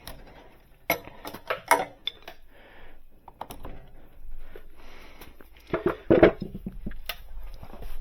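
Clinks and clatter of metal tools being handled: a few sharp knocks about a second in, and a louder cluster around six seconds.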